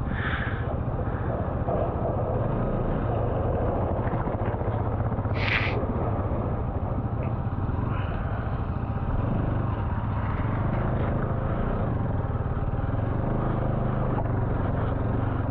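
Bajaj Pulsar NS200's single-cylinder engine running steadily at low speed as the bike rolls through a shallow water crossing on a rocky track, with a brief hiss about five and a half seconds in.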